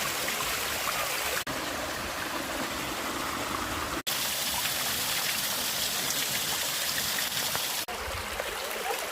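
River water rushing over rocks, a steady full noise that drops out for an instant three times.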